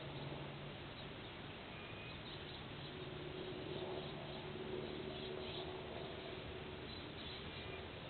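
Faint, short bird chirps over a steady background hiss and a low hum.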